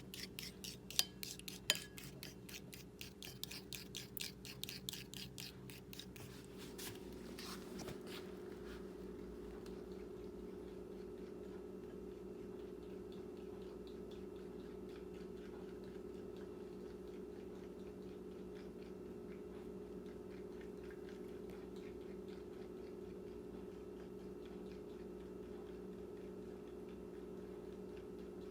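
Fork beating eggs in a bowl, a fast run of light clinking strokes, about five or six a second, that stops about seven seconds in. Then a steady low hum sets in and holds: the microwave oven cooking the omelet.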